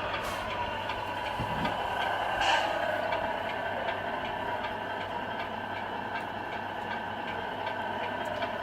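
RC Scania R470 model truck running with a steady mechanical hum and a faint, regular ticking a few times a second.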